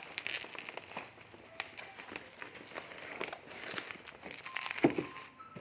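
Toy packaging being handled and unwrapped: irregular crinkling and rustling with many small clicks and taps, and a brief short voice sound near the end.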